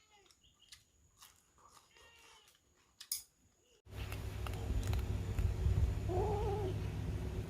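Faint animal calls, then after an abrupt change a louder steady low hum with one wavering animal call about six seconds in.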